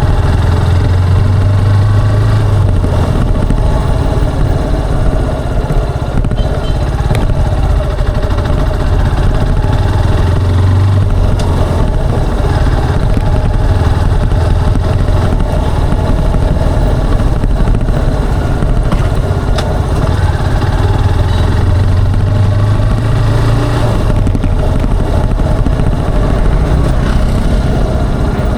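Motorcycle engine and exhaust running steadily while riding, with its low note swelling louder near the start, about ten seconds in, and again some twenty-two seconds in.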